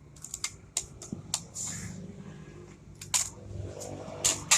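Irregular sharp clicks and taps, with a brief hiss about one and a half seconds in and a louder cluster of knocks near the end.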